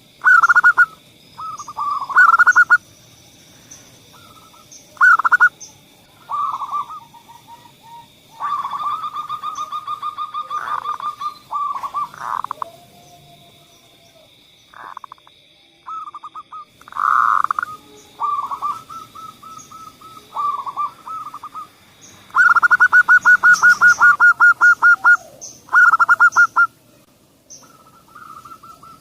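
Zebra doves (perkutut) cooing: rapid, pulsed cooing phrases repeated with short pauses, the longest run coming a little after two-thirds of the way in. A steady faint high tone and scattered faint chirps run underneath.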